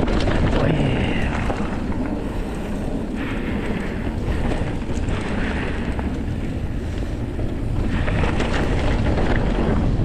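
Wind rumbling steadily on the microphone while riding a bicycle, with rough, even noise and no distinct events.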